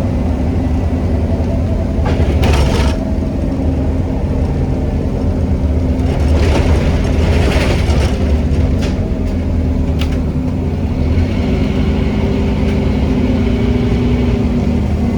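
Scania N270UD OmniCity double-deck bus heard from on board while on the move: the diesel engine's steady drone, with knocks and rattles from the body now and then. A burst of noise comes about halfway through, and a higher whine comes in during the last few seconds.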